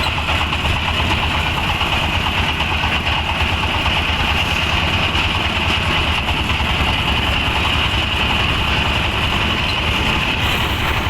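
A motor vehicle's engine running steadily, a low even rumble with a constant hiss above it.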